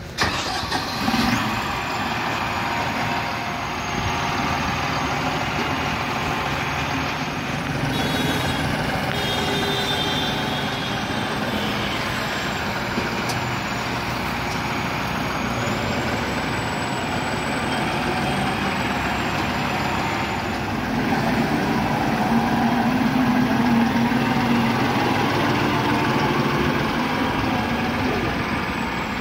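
New Holland 5630 tractor's common-rail diesel engine running steadily under load as the tractor-mounted drilling rig travels along the road. The noise grows a little louder about two-thirds of the way through.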